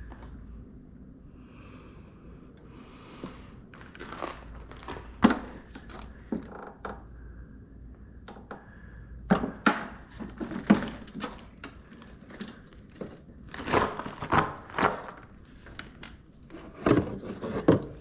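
Scattered knocks, clunks and rustling from hands handling a lawn mower and a container while gasoline is being drained, with a busier run of clunks near the end.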